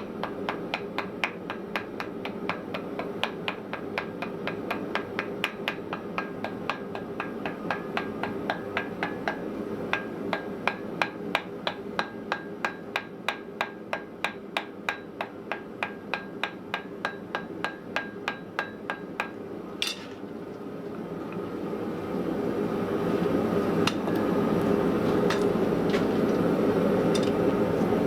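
Hammer blows on metal at an anvil, about three strikes a second in a steady rhythm, as wrought iron is forged. About twenty seconds in the hammering stops and a steady rushing noise rises and holds, with a few scattered knocks.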